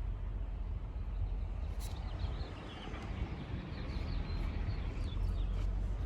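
A small bird chirping in a quick run of short calls, from about two seconds in until near the end, over a steady low outdoor rumble.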